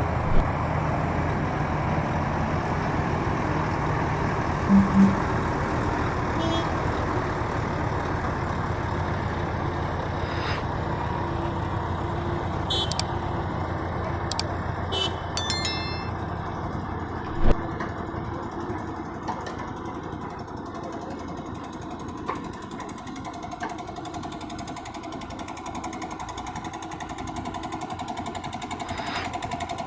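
Heavy truck engine running under road noise, with a few sharp knocks and clanks, the loudest about midway through.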